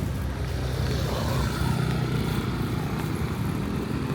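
Street traffic in the rain: motor vehicle engines running close by, a steady low hum under an even hiss of rain and wet road.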